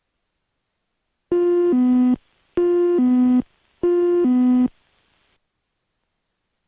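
A cockpit aural alert in a Cessna Citation Mustang: an electronic two-note high-low chime sounded three times in quick succession, heard through the intercom audio.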